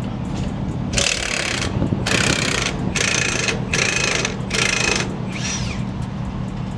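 Milwaukee cordless impact wrench hammering in five short bursts about a second apart, working to break nuts loose. A steady low hum runs underneath.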